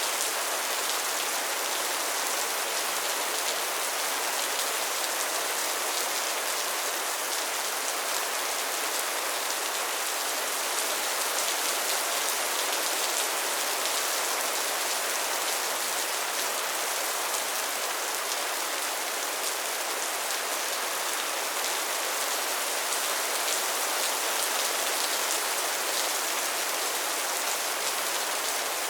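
Steady rain falling, an even hiss with fine drop patter and no thunder.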